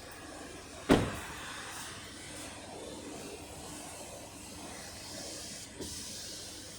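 Holden Cruze 1.8-litre four-cylinder engine idling steadily, with one sharp knock about a second in.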